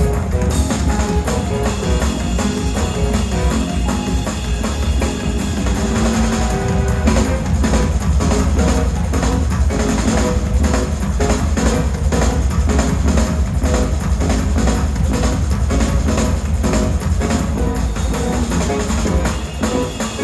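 Live gospel band playing an instrumental passage with a full drum kit driving a steady beat, bass drum and snare prominent over a heavy bass line and keyboards.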